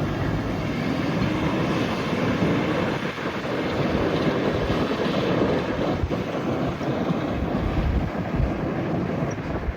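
Humvee driving, with steady engine and road noise.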